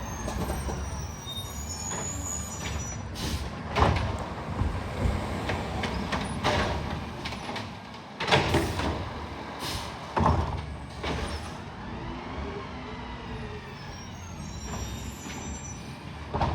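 Garbage truck running with a steady low diesel rumble, broken by several loud metallic bangs about 4, 8, 10 and 16 seconds in. A faint whine rises and falls near the end.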